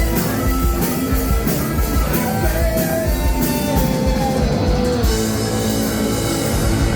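Indie punk rock band playing live: distorted electric guitar over bass and drum kit. About four seconds in, the cymbals drop away while held guitar notes slide down.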